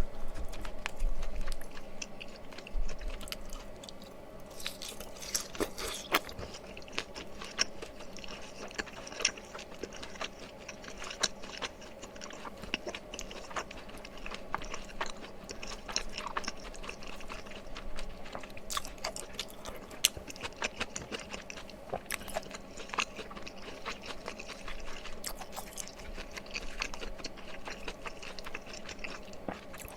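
Close-miked chewing and wet mouth sounds of a person eating mala tteokbokki, with many small clicks and smacks throughout, louder in the first few seconds.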